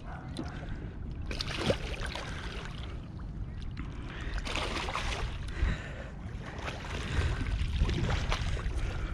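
Water sloshing and splashing in noisy swells, with wind rumbling on the microphone.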